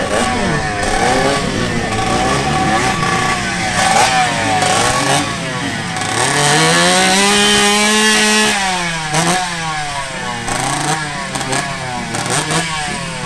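Motorcycle engines revving over and over at a drag-strip start line: an AKT 125 LS four-stroke and a two-stroke Yamaha RX 100. Short blips rise and fall in pitch, with one longer rev held high about halfway through before falling away.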